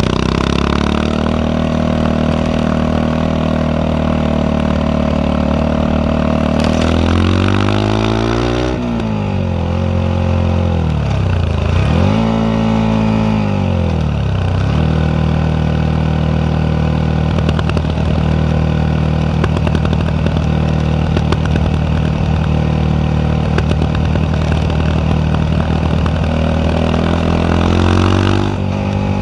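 Yamaha WR125X single-cylinder four-stroke engine running through an Arrow exhaust. It holds at raised revs, falls off, is revved up and down once, then idles with frequent irregular pops from the exhaust, which are the misfires. It revs up again near the end.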